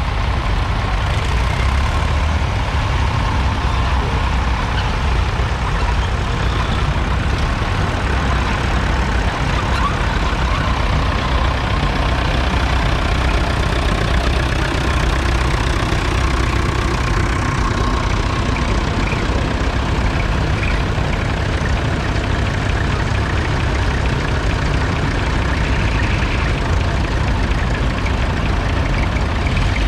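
Vintage tractor engines running steadily.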